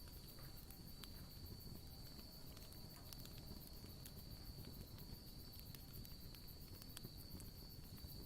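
Wood campfire crackling faintly with sparse, irregular small pops, over a steady high-pitched trill of crickets.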